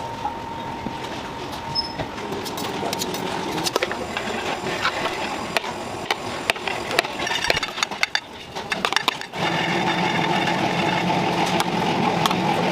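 Workroom machinery running steadily, with scattered clicks and knocks of utensils and equipment. A louder machine hum starts suddenly about nine seconds in.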